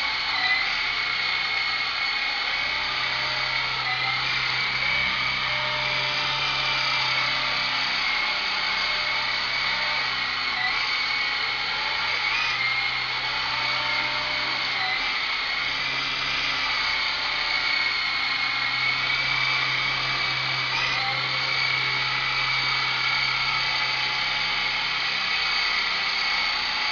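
Small electric radio-controlled helicopter's motor and rotor whining steadily at a high pitch, with brief dips in pitch now and then.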